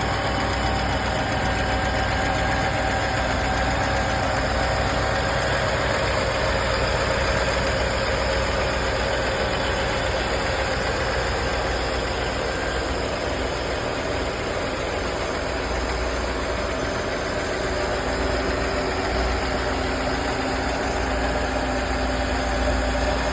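1986 Mercedes-Benz 560SL's 5.6-litre V8 idling steadily shortly after a cold start, with an even running note.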